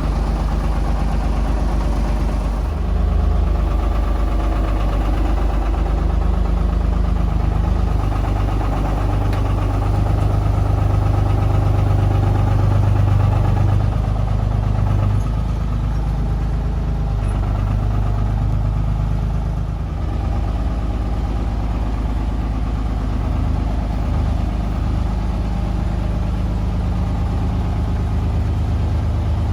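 Tractor engine running at low revs, its pitch and loudness shifting in steps every few seconds as the throttle changes while the tractor manoeuvres slowly.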